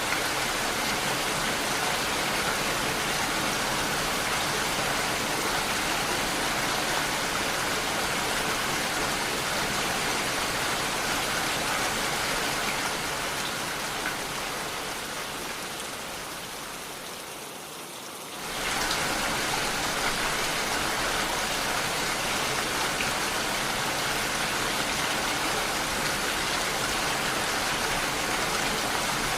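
Steady rain, an even hiss of falling drops; about twelve seconds in it gradually fades down, then cuts back in to full level abruptly about eighteen seconds in.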